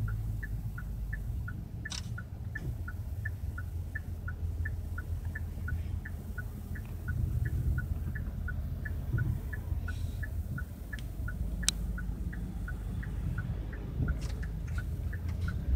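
Car's turn-signal indicator ticking in an even two-note tick-tock, about three ticks a second, over the low rumble of the car's engine and road noise in the cabin.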